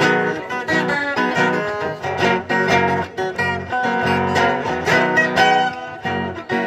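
Instrumental break in a sung country ballad: plucked and strummed acoustic guitar playing a steady rhythm, with no vocals.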